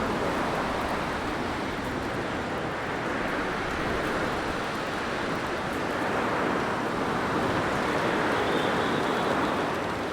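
Blizzard wind blowing as a steady rushing noise that swells and eases slowly, with a faint high whistle near the end.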